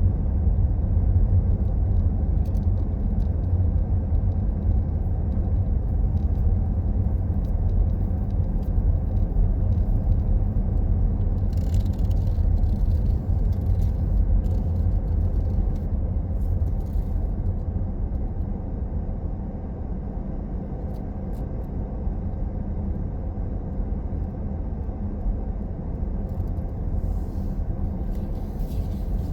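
A car driving along a road: a steady low rumble of engine and tyres that eases a little past the middle, with faint clicks and rattles about twelve seconds in and again near the end.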